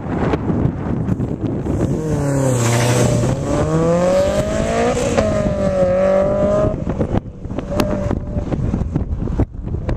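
Honda S2000's four-cylinder engine driven hard past the microphone. Its pitch dips, climbs, drops sharply about five seconds in and climbs again before fading. Wind buffets the microphone throughout.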